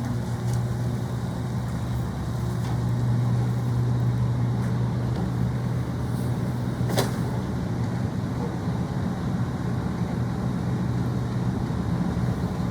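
Garbage truck engine running steadily with a low, even hum, and one sharp knock about halfway through.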